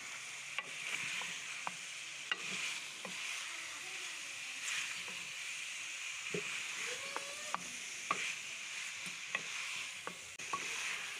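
Chicken and kachnar (mountain ebony flower buds) frying in masala in a metal pot with a steady sizzle. A wooden spoon stirs through them, with scattered clicks and scrapes of the spoon against the pot.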